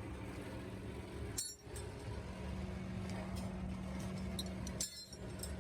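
Machine-shop ambience: a steady machine hum with sharp metallic clinks, about one and a half seconds in and again near the end, as metal parts are handled.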